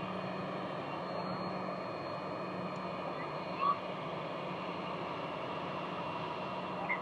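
Steady jet engine noise from an Embraer ERJ regional jet: a rushing hiss with thin whining tones held over it. A short rising chirp sounds about three and a half seconds in, and another near the end.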